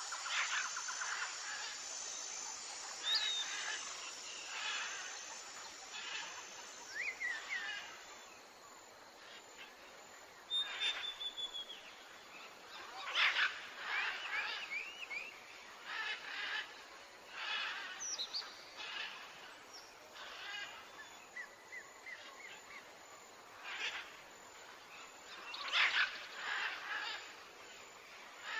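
Wild birds calling: scattered short chirps, quick sweeping whistles and trills, one after another with brief gaps.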